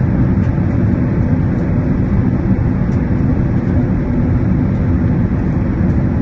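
Steady low rumble of engine and airflow noise inside the cabin of an Airbus A380 airliner, with a faint steady hum under it.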